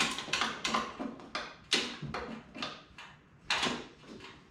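Repeated sharp metal clacks, about three a second, from the mini bike's shift lever being worked.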